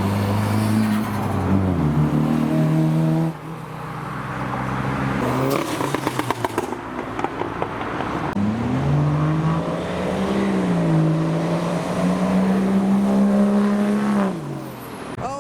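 Modified cars' engines accelerating past one after another, the pitch dropping at gear changes and climbing again. A short, rapid crackle about six seconds in, between the two cars.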